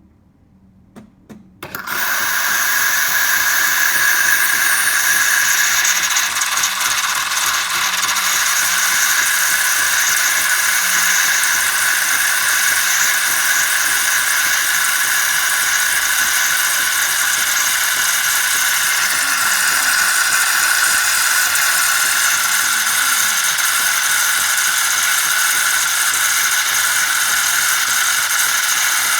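Philips 3200 Series fully automatic espresso machine at work: a couple of clicks, then about two seconds in a loud, steady mechanical whirring that runs on without a break.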